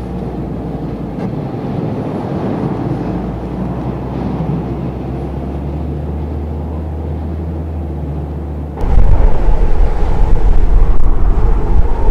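Strong blizzard wind gusting across the microphone as a steady low rumble, with a much louder gust buffeting the microphone about nine seconds in.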